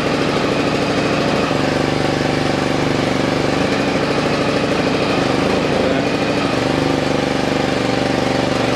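Engine of a hydraulic boat-hauling truck idling steadily with an even hum while the hydraulic trailer raises the boat.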